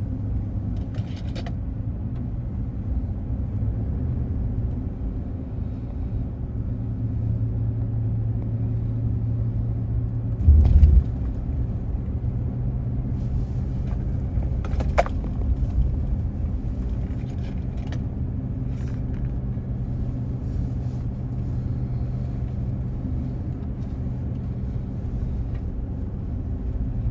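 Car engine and road noise heard from inside the cabin while driving, a steady low hum. A loud low thump comes about ten seconds in, and a few light clicks and rattles come through now and then.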